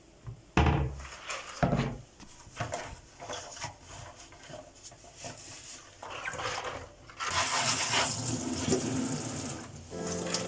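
Household items handled and set down in a kitchen cabinet: two heavy thuds early on, then scattered clicks and rubbing. From about seven seconds in comes a steady rushing of kitchen tap water running into the sink.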